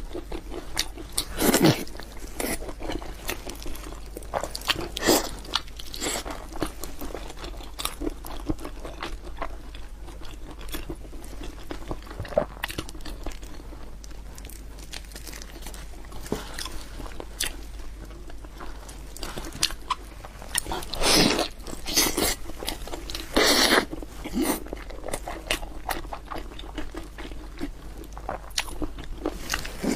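A person biting and chewing food, with irregular crunches and smacks. A run of louder bites comes about three quarters of the way through.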